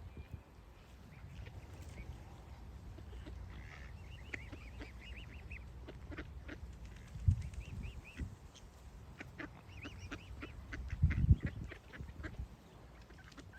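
Birds calling in runs of short, quick high notes, with two loud low bumps about seven and eleven seconds in.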